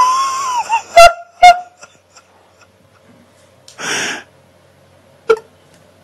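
Hairless cat's drawn-out yowl trailing off, followed by two sharp clicks about a second in and, near the middle, a short breathy hiss.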